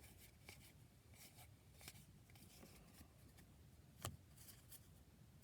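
Faint rustling and light ticks of glossy baseball cards being slid apart and handled, with one sharper tap about four seconds in.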